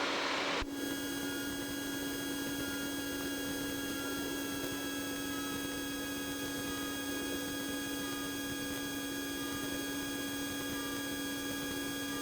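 Steady electrical hum with a stack of fixed high whining tones and a faint tone slowly falling in pitch. A rushing noise cuts off sharply about half a second in.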